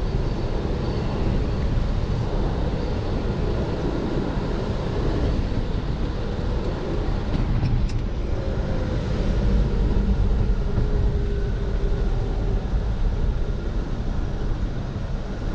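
A 1974 Ford F-250's 360 FE V8 pulling the truck steadily down the road, with a continuous low rumble of engine, drivetrain and tyre noise.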